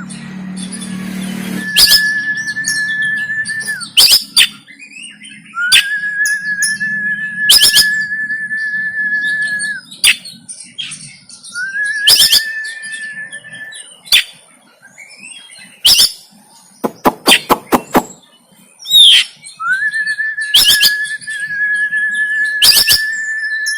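Oriental magpie-robin (kacer) singing: four long, flat whistled notes, each held two to four seconds, broken by sharp harsh clicking notes, with a quick rattle of clicks a little after the middle.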